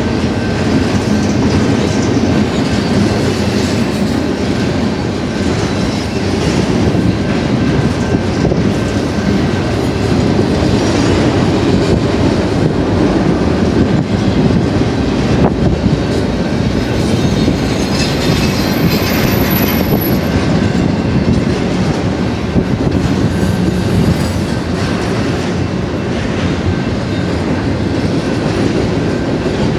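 Double-stack intermodal container cars of a freight train rolling past: a steady rumble of steel wheels on rail with clickety-clack. A brief high-pitched squeal comes a little past halfway.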